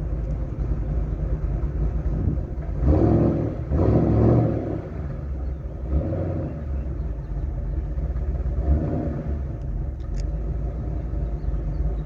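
Exhaust of a 2005 Mustang GT's 4.6 L three-valve V8, fitted with Stage 1 cams, long-tube headers, a catted shorty H-pipe and stock mufflers, running with a choppy low rumble. It swells louder twice, briefly, about three and four seconds in.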